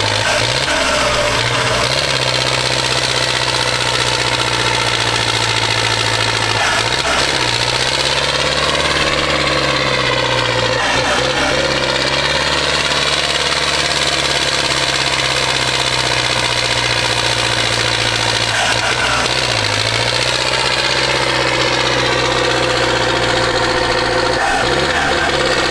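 Tractor diesel engine running hard and steady, its pitch dipping briefly and recovering several times.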